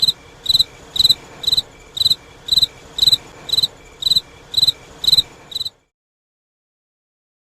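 Cricket chirping in a steady rhythm, about two short high chirps a second. It stops abruptly near the end, leaving silence.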